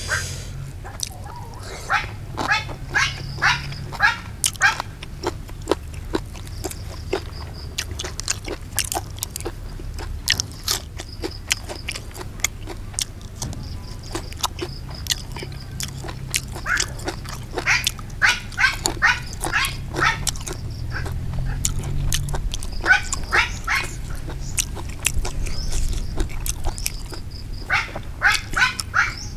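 Close-up wet chewing and lip-smacking of raw beef with raw chilies. It comes in runs of quick smacks with short pauses between, over a low steady rumble.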